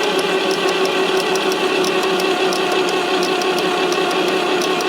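Fordson Super Major's 3.6 L diesel being cranked over by its electric starter: a steady whine with a regular clicking about three times a second. The engine turns but does not fire.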